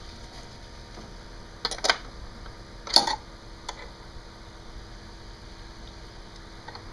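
A few sharp metallic clinks and clatters, like hand tools knocking against metal: a quick cluster about two seconds in, a louder one about a second later, then a single faint tick, over a steady mechanical hum.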